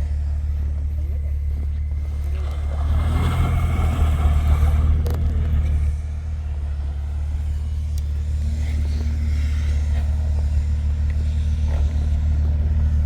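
Off-road vehicle engine running with a steady low drone. It grows louder for a few seconds, about three seconds in, then settles back.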